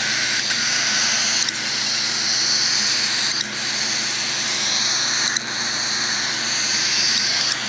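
A chorus of baby cockatiels giving continuous raspy food-begging screeches, many chicks at once: hunger calls, the babies always sounding hungry even soon after a feed. A steady low hum runs underneath.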